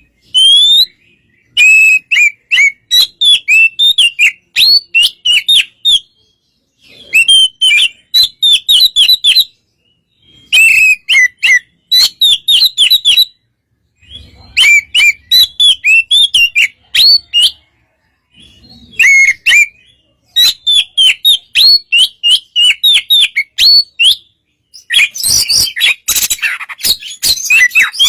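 Oriental magpie-robin (kacer) singing: bouts of rapid, sharp whistled notes, several a second, a few seconds long with short pauses between them, and a denser, harsher chattering passage near the end.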